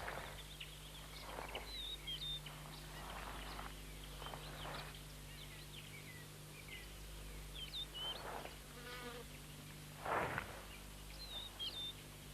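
Outdoor savanna field sound: short, high bird chirps every few seconds over a steady low drone, with several soft rustling scrapes.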